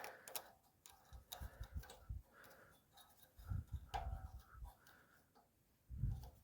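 Scattered light clicks and taps with a few dull low thumps, the sound of small carburetor parts and gaskets being handled and fitted by hand.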